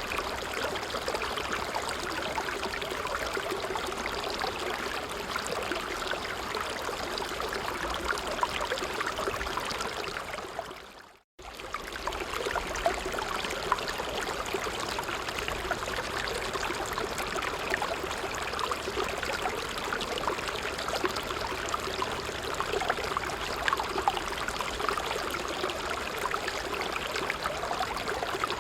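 A creek running, a steady rush of water with many small splashes and gurgles. About ten seconds in it fades briefly to silence, then cuts back in abruptly.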